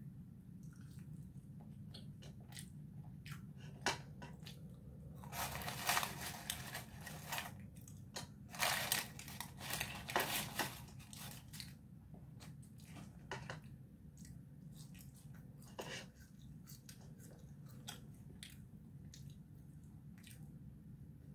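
Close-up eating sounds of a person chewing and biting fast-food fries and a sandwich, with many small mouth clicks and smacks. Paper wrapper crinkles loudly in two stretches, about five to seven seconds in and again around nine to eleven seconds.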